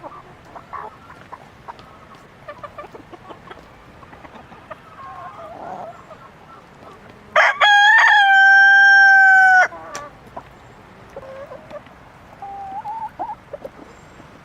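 A rooster crows once, a loud call of about two seconds that bends up briefly at the start and then holds a steady pitch before cutting off. Softer short clucks and small clicks from the flock come before and after it.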